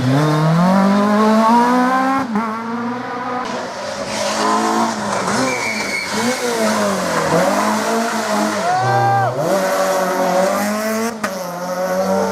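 Rally car engine at full throttle, its pitch climbing and dropping repeatedly with gear changes and lifts off the throttle, with tyres squealing.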